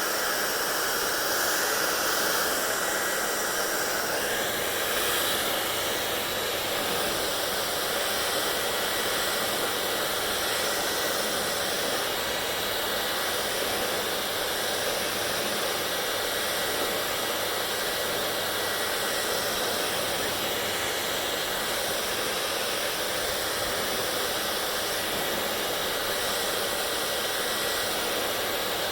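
Hair dryer running steadily: an even rush of blown air with a faint thin whine.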